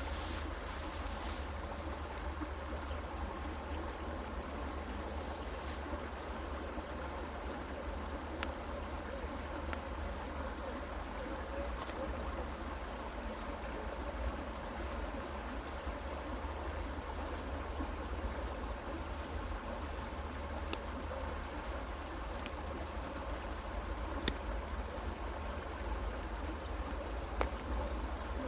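A creek running steadily over stones, an even rushing of water with a low rumble underneath. A single sharp tick stands out briefly about 24 seconds in.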